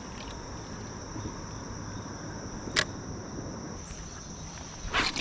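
Steady high-pitched insect chorus, with two short sharp clicks about two seconds apart, one midway and one near the end.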